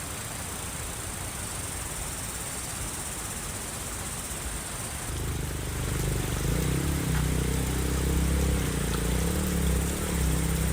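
A steady hiss, then about halfway through a motor starts a low drone that wavers slightly in pitch and keeps running.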